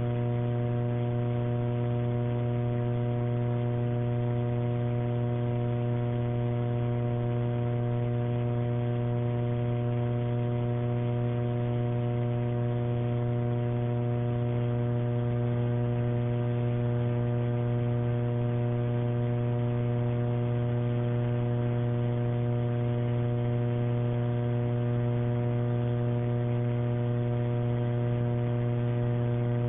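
Steady electrical buzzing hum on an open telephone line: one low tone with a ladder of overtones, unchanging, until it cuts off suddenly at the end.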